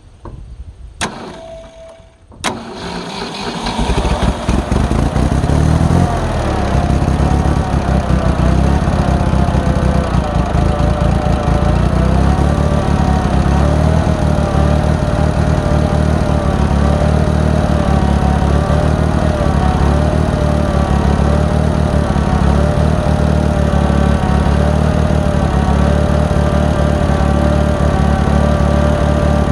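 1966 Ford 3000 tractor's three-cylinder gasoline engine starting after sitting for a year: two sharp clicks, then the engine catches about two and a half seconds in and settles into a steady run.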